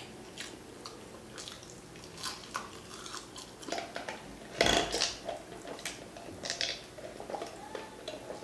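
A person biting into and chewing crispy fried onion rings close to the microphone: scattered crunches and mouth clicks, with one louder crunch about halfway through.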